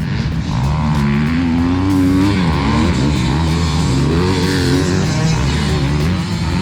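Several motocross dirt bikes riding past, their engines revving up and down, with the pitches of more than one bike rising and falling over each other.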